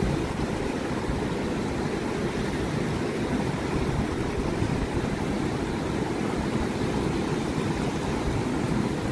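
Fast, turbulent river water rushing: a steady, low, even noise.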